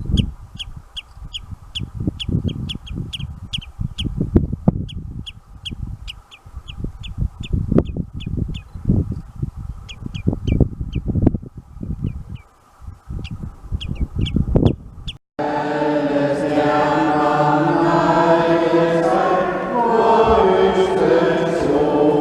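A bird giving short, high, repeated chirps, two or three a second, over irregular low thuds and rumbles. About fifteen seconds in, the sound cuts abruptly to a choir singing a slow chant.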